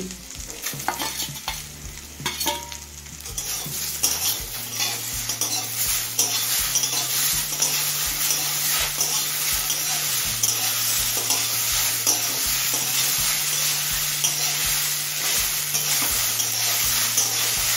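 Prawns, potato and fig pieces frying in hot mustard oil in a wok, with a steady sizzle that grows louder about four seconds in. A spatula scrapes against the pan again and again as the mixture is stirred.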